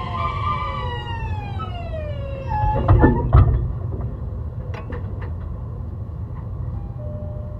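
Hitachi hybrid-SiC VVVF inverter on an E131 series electric train whining in a stack of tones that fall steadily in pitch over the first two and a half seconds as the train slows under electric braking. A few loud knocks from the running gear follow about three seconds in, then a low rolling rumble with scattered clicks.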